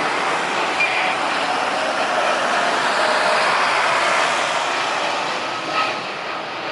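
Jet airliner's engines passing close by: a steady rush of engine noise that builds to its loudest about halfway through and then eases off, with a brief sharp sound near the end.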